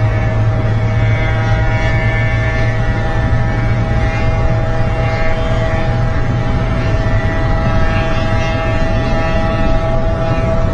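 Motorcycle engine running at steady high revs: a constant droning tone that barely changes pitch.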